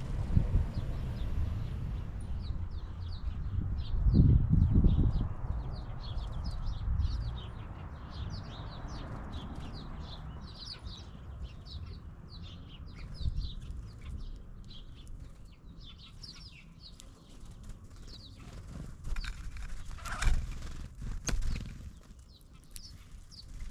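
Small birds chirping, a rapid run of short, falling chirps that thins out after the middle, over a low rumble that swells briefly about four seconds in. A few sharp knocks come near the end.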